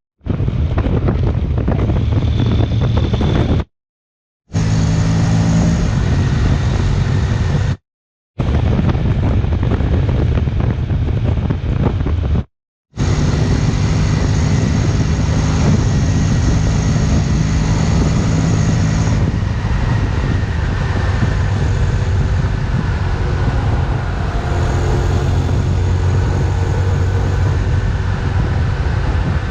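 Wind rushing over the microphone of a rider on a Honda X-ADV 750 at road speed, with the steady hum of its parallel-twin engine underneath. The sound drops to dead silence three times in the first half and resumes each time: short clips spliced back to back for a wind-noise comparison.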